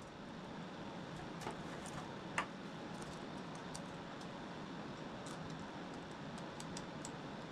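Scattered light metallic clicks and taps of hand tools and parts being worked on under a car's hood, with one sharp click about two and a half seconds in, over a steady low background hiss.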